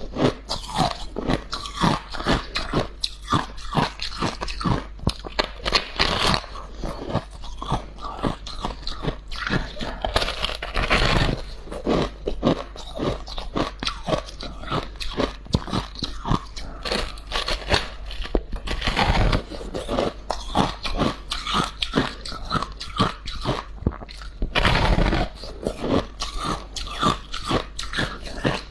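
A person chewing a mouthful of freezer frost: a dense, unbroken run of crisp crunches and chewing, with a few louder, longer crunches at about eleven, nineteen and twenty-five seconds.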